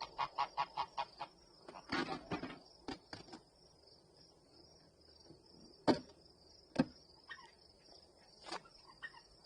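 Steady high-pitched chirring of crickets throughout. Over it, a quick run of about seven clicks at the start, a clatter around two seconds in, and a few scattered knocks and sharp clicks.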